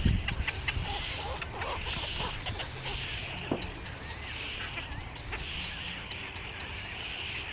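Birds calling repeatedly, short raspy calls about once a second, over a low steady rumble.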